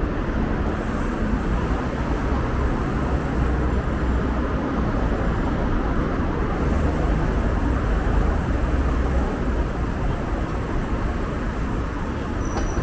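Steady city road traffic noise with a deep rumble, heard while riding a bicycle.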